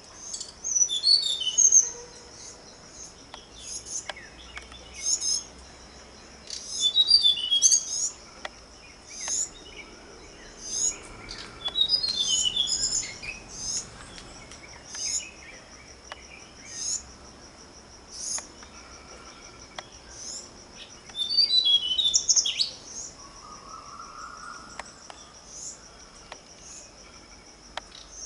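Birds chirping: short, high single chirps every second or two, broken by a few rapid twittering bursts, over a steady high-pitched insect drone.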